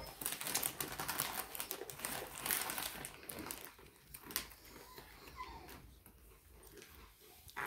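People chewing crunchy peanut butter biscuits: dense, crackly crunching that thins out and grows fainter after about four seconds.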